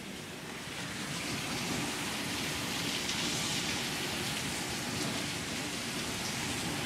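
Rain falling steadily in a thunderstorm, an even hiss with no breaks.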